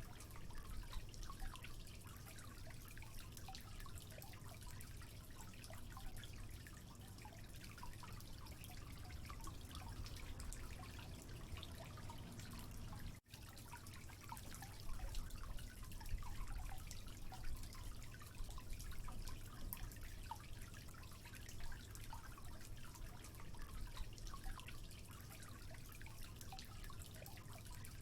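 Water trickling and dripping: a dense, irregular patter of small drops over a steady low rush, with a brief dropout about thirteen seconds in.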